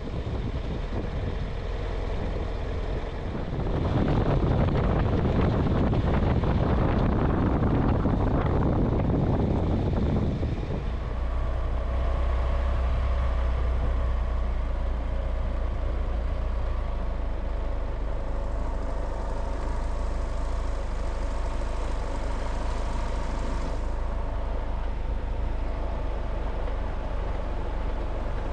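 A vehicle running on the road, heard from on board. A rushing road and wind noise swells for several seconds, then gives way to a steady engine hum for the rest of the stretch.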